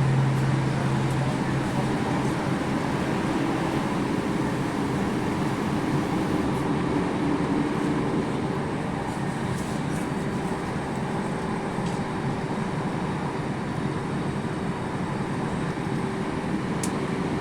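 Inside a diesel passenger train running at speed: a steady rumble of engine and wheels on the rails, with a faint steady hum. It grows a little quieter in the second half.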